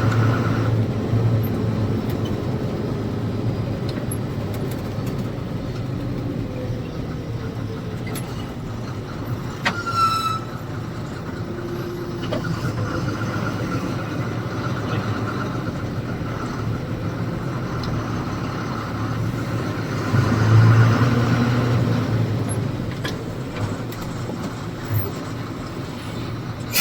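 A lorry's diesel engine runs steadily at low speed. There is a sharp click about ten seconds in, and the engine swells louder around twenty seconds in.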